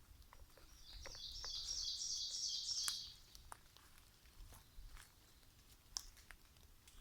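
A songbird's fast trill of rapidly repeated high notes, lasting about two seconds and starting about a second in. Scattered light clicks and ticks around it, from footsteps on the forest floor.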